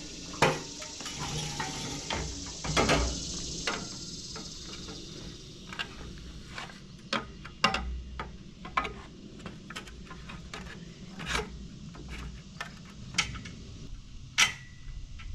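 Bolts and a plastic pool-ladder step being handled and fitted: scattered metallic clinks, taps and knocks at irregular intervals, the sharpest near the start and near the end, over a faint hiss that fades after the first few seconds.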